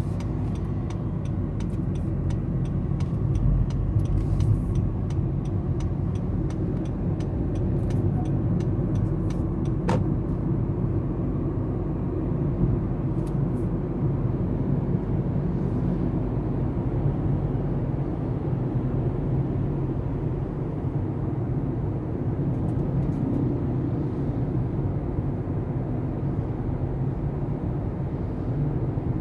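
A road vehicle running steadily, a continuous low engine and road rumble. For roughly the first ten seconds there is a light, fast ticking, and about ten seconds in there is one sharper click.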